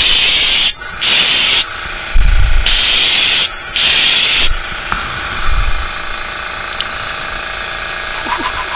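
Red metallic paint sprayed onto fishing lures in four short hissing bursts, each under a second long, followed by a fainter steady hiss.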